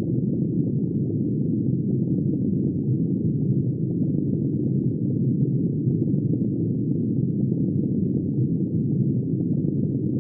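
Muffled underwater ambience: a steady, low rushing noise with no high sounds in it.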